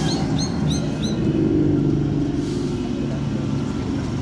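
Electric multiple-unit local train pulling out, a steady rumble of wheels with the hum of its electric motors. A quick run of short, high chirps in the first second.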